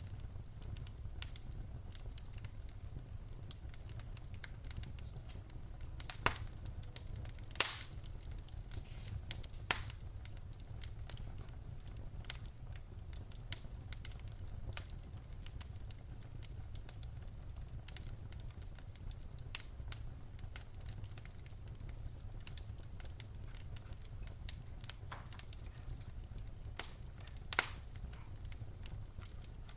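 Wood fire burning in a fireplace: irregular crackles and sharp pops from the burning logs over a steady low rumble of the flames, with a few louder pops scattered through.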